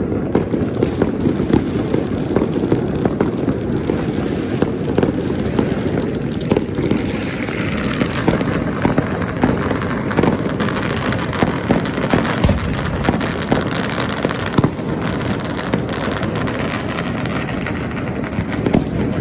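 Dense, continuous crackle of many firecrackers and fireworks going off together, a rapid run of sharp pops over a steady rumble.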